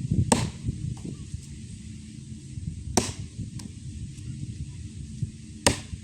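Three sharp axe strikes into wood, spaced roughly two and a half seconds apart, from a small Swiss Tech axe chopping or splitting firewood.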